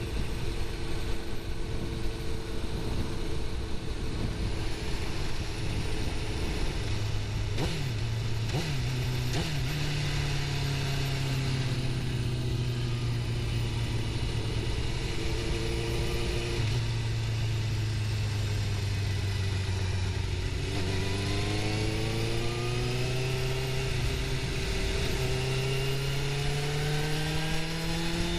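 Suzuki GSX-R750's inline-four engine running at a steady cruise with a few gear changes, then revving up hard from about two-thirds of the way in, with one upshift near the end. A constant rush of wind noise runs underneath.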